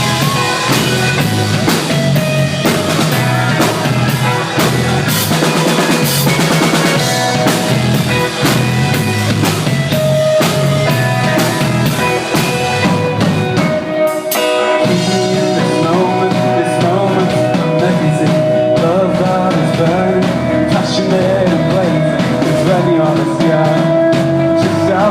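Rock band playing an instrumental break: a drum kit keeping a steady beat under electric guitars and bass, with the bass dropping out briefly about 14 seconds in.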